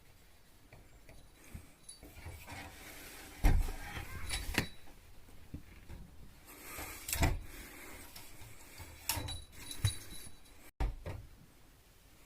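A few scattered knocks and rustles, the loudest about three and a half seconds in, with others around four and a half, seven and ten seconds.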